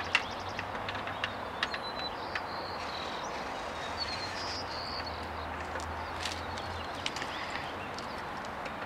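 Outdoor ambience with small birds chirping now and then over a steady hiss, and a few light clicks and taps from handling.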